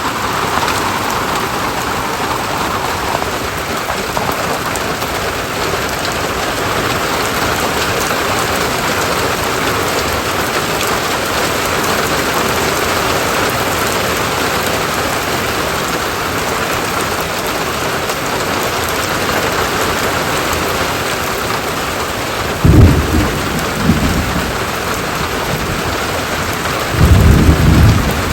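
Steady rain falling, with two low rumbles of thunder near the end.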